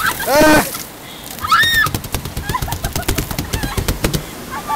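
Raft riders shrieking and yelping: a loud shout about half a second in and a shrill high scream a second later, with smaller yelps around them. A rapid run of sharp clicks or rattles follows for about two seconds.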